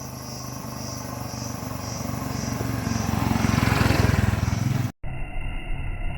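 Motorcycle engine running and growing steadily louder for about four seconds as the bike pulls away, then cut off abruptly and followed by a steadier engine and road sound.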